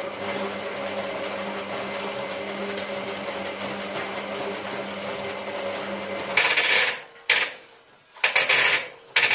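Hotpoint 9534A washing machine running with a steady mechanical hum during its rinse stage. The hum stops about six seconds in and is followed by a few short, loud hissing bursts.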